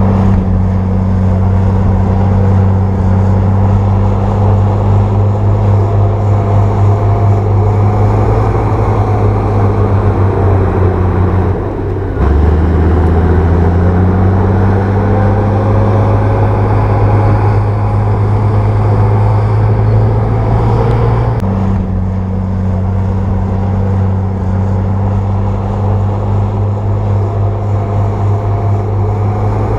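Bulldozer's diesel engine running steadily under load, a low, even drone. Its pitch and level change abruptly about twelve seconds in and again about twenty-one seconds in.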